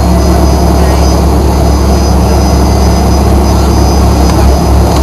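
Fokker 100 heard from inside the passenger cabin: its Rolls-Royce Tay turbofan engines running steadily, with a loud low rumble and a thin high whine over it.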